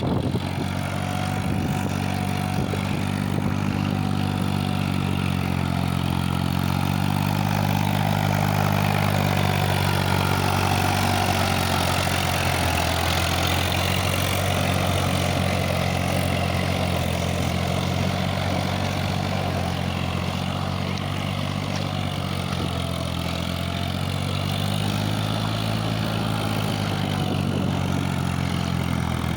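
Sonalika tractor's diesel engine running steadily, its low note shifting slightly in pitch now and then.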